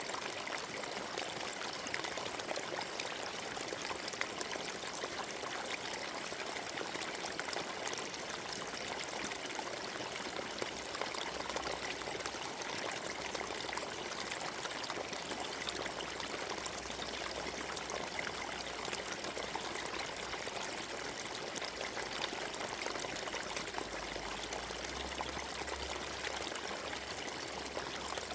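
Forest stream running steadily over stones, a continuous splashing and trickling of water. A faint low rumble sits underneath in the second half.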